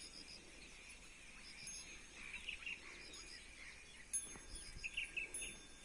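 Faint outdoor bird calls. A high three-note pip repeats about every second and a half over scattered chirps, which are busiest near the end. A single sharp knock comes about four seconds in.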